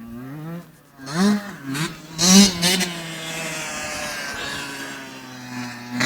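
Small 11 hp motocross bike engine revving in quick throttle blips: sharp rises in pitch about a second in and again, loudest, at about two and a half seconds. It then runs at a steady pitch for a few seconds and blips once more near the end.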